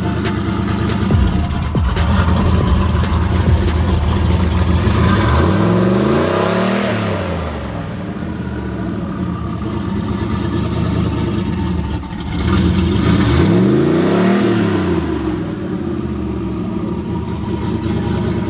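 Vehicle engine running, revved up and back down twice, the revs peaking about seven seconds apart.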